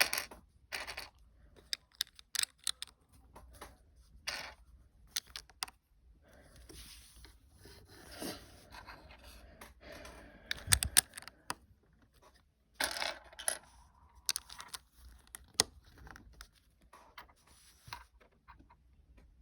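Lego bricks being handled and snapped together: scattered sharp plastic clicks with rattling and rustling of pieces, at irregular intervals.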